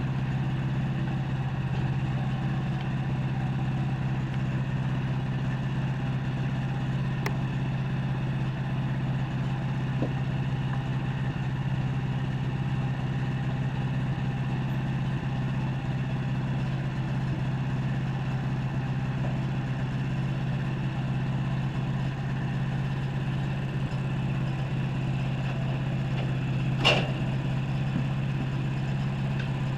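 Sawmill engine running steadily as an even, unchanging drone. Near the end a single short, sharp clink rises briefly above it.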